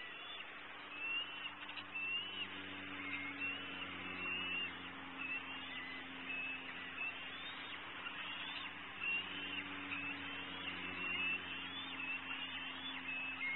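Birds chirping, short high slurred notes one or two a second, over the low hum of road traffic that swells and fades twice.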